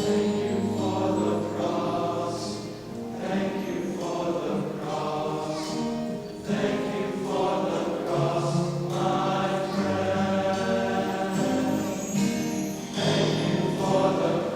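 A choir singing, holding long sustained chords phrase after phrase.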